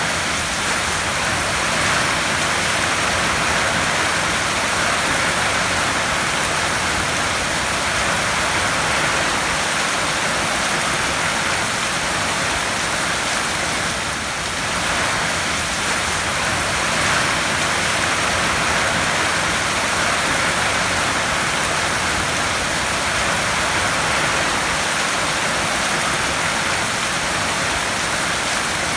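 Heavy rain falling on a tin roof: a steady, dense patter with no breaks.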